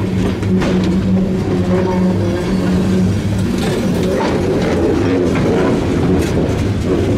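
Freight cars, tank cars and a covered hopper, rolling slowly past close by, with a handful of sharp clunks from the wheels and running gear over a steady low engine hum.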